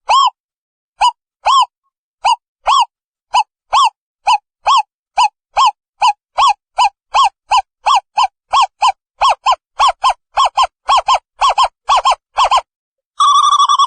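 Owl calling a series of short hoots that speed up from about two a second to about three a second. After a brief pause near the end it breaks into a fast bubbling trill.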